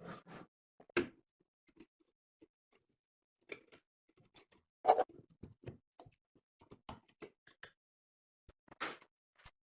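Scattered sharp clicks and light knocks of tools and metal parts being handled, with the loudest knock about a second in, another near the middle and one near the end.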